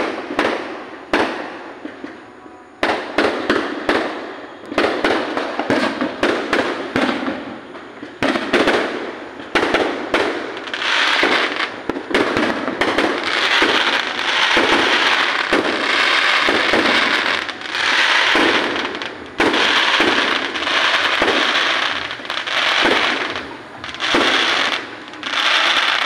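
Aerial fireworks exploding overhead in a rapid barrage of bangs. The bursts come spaced out at first, then from about ten seconds in they follow so closely that they merge into a nearly continuous din with short lulls.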